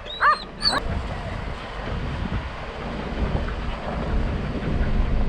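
Hurricane wind buffeting the microphone: a steady, heavy low rumble. A dog whines briefly a couple of times in the first second.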